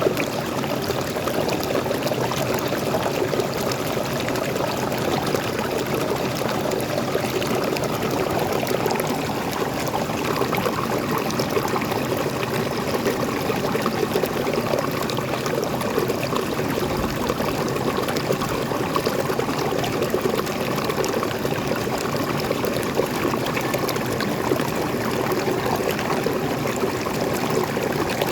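Small waterfall and stream of fresh water running steadily, a continuous splashing and trickling over rocks.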